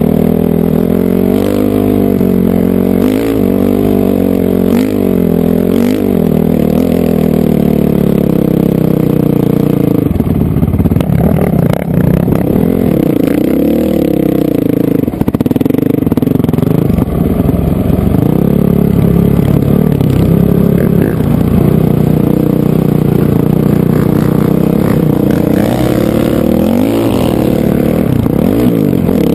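Honda CRF450R dirt bike's single-cylinder four-stroke engine running hard while riding, its pitch rising and falling again and again as the throttle is worked.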